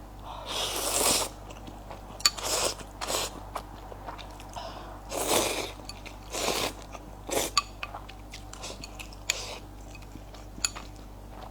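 A person eating close to the microphone: a run of short bites and chewing noises, about eight separate bursts with small clicks between them.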